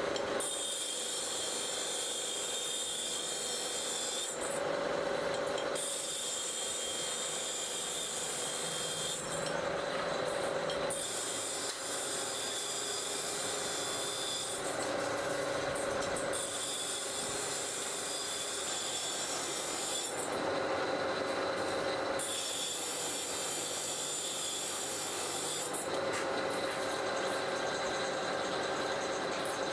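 Metal rubbing and scraping from spring-making work on steel wire, running steadily and changing in a repeating cycle about every five and a half seconds.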